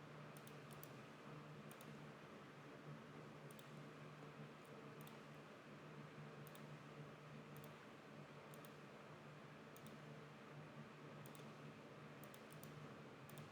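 Faint computer mouse clicks, scattered about once a second and some in quick pairs, over a steady low hum.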